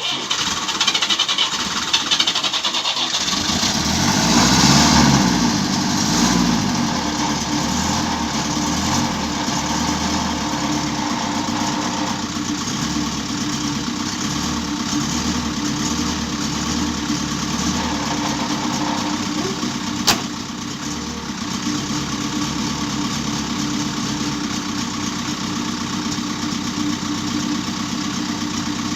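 Large diesel engine cold-started: it cranks, catches about three seconds in, runs louder for a few seconds, then settles into a steady idle. There is a single sharp click about twenty seconds in.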